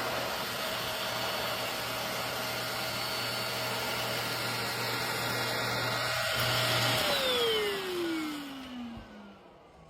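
Stick vacuum running steadily with a motor whine, then switched off about seven seconds in. The whine falls in pitch as the motor spins down.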